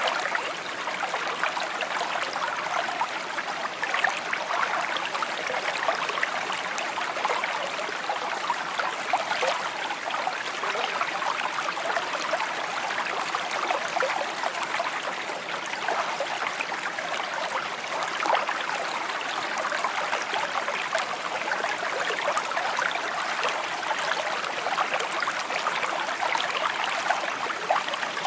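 Brook water trickling and babbling steadily, a dense patter of small splashes and gurgles.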